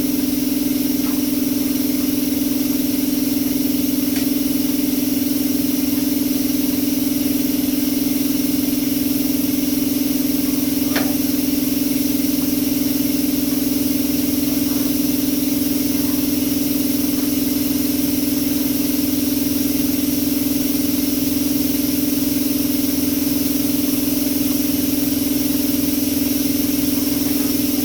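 A motor running at a steady speed, a loud constant hum that does not change, with one faint click about eleven seconds in.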